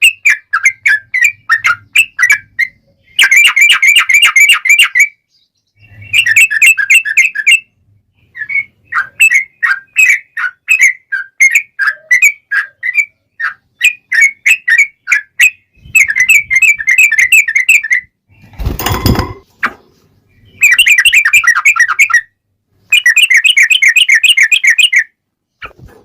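Yellow-vented bulbul (trucukan) singing loudly: choppy bubbly phrases broken by several long, fast rolling trills. About nineteen seconds in, a short loud rushing noise cuts in once.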